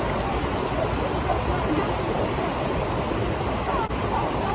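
Steady rush of flowing water from a river or waterfall, with a brief dip about four seconds in.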